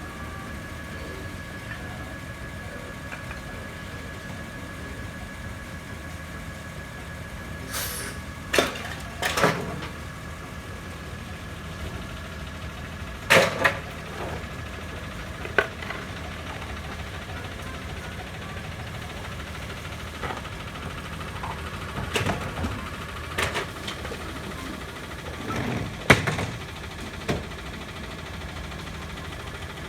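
Rear-loader garbage truck idling steadily with a faint constant high whine, broken by a series of loud bangs and clanks, about nine in all from a quarter of the way in until near the end, as bulky waste is handled at the hopper.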